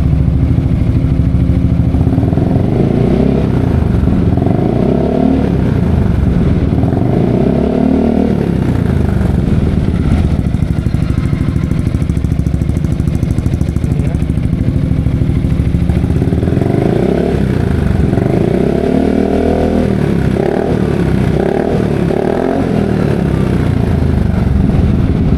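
Yamaha XMAX 250 scooter's single-cylinder four-stroke engine breathing through an aftermarket ProSpeed Scooter Series exhaust, running at idle and revved up and down in repeated throttle blips. There are two spells of revving: one a few seconds in and another past the middle.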